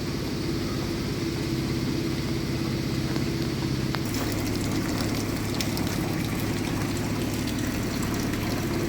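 A motor running with a steady low hum over a noisy rush. Its pitch steps down slightly about four seconds in.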